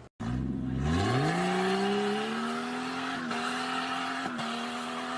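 Car engine revving up over the first second or so, then held at high, steady revs, with two brief dips in pitch about three and four seconds in.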